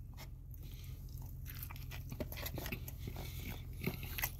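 A person chewing a mouthful of bacon cheeseburger close to the microphone, giving a run of soft, irregular mouth clicks.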